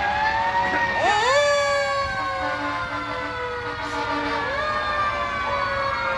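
Several fire truck sirens wailing at once, overlapping at different pitches. Most slowly fall in pitch, while one sweeps sharply up about a second in.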